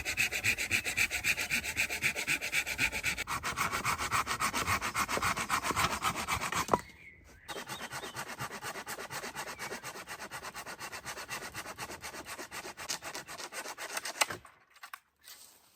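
Fast, even back-and-forth strokes of a hand tool rubbing on wood, loud for about the first seven seconds. After a short pause comes a softer run of strokes, which stops a second or so before the end.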